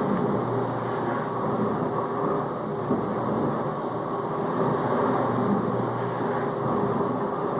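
Whirlpool dishwasher in its final rinse with rinse aid added: the circulation pump runs and sprays water around the tub, a steady wash noise with a low hum underneath.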